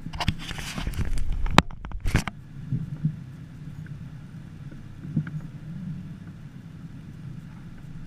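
An engine idling with a steady low hum. A loud rustling burst, like wind buffeting or handling noise, fills the first two seconds.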